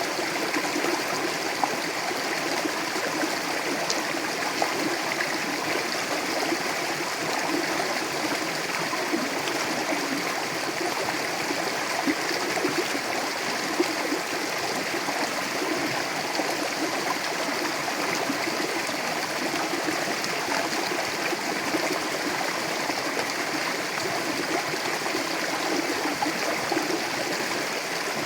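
Mountain river flowing over rocks: a steady rush of water with small splashes and gurgles.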